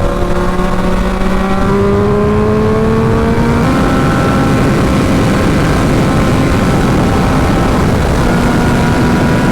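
Motorcycle engine pulling hard, its pitch rising steadily, then an upshift about three and a half seconds in, after which it keeps running at speed under heavy wind noise.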